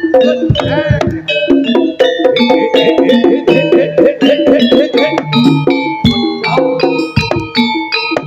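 Jaranan ensemble music played live: drums and quick struck pitched notes in a dense, unbroken rhythm.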